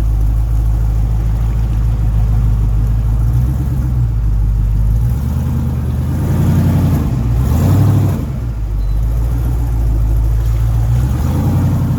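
Truck engine running while the truck is driven slowly, with a steady low drone; about halfway through it revs up for a couple of seconds, then settles back.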